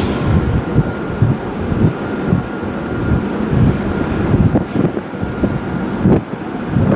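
Shinkansen bullet train moving at the platform: a loud steady rumble with many irregular low thumps, and a brief burst of hiss right at the start.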